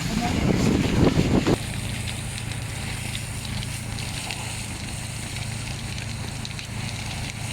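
A loud jumble of noise that stops suddenly about a second and a half in, followed by an engine running steadily with a low, even hum.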